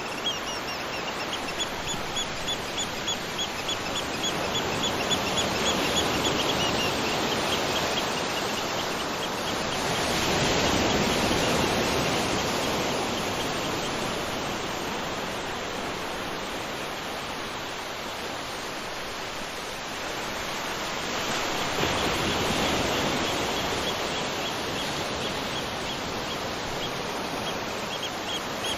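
Waterfall rushing steadily, swelling and easing slowly. A bird calls over it in runs of short high chirps, about four a second, for the first several seconds, again past the middle, and near the end.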